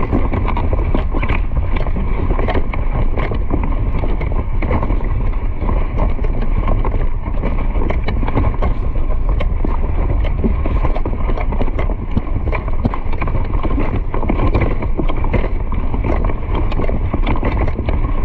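Wind buffeting the microphone during fast movement: a heavy steady rumble with a constant run of quick, irregular knocks and clatters over it.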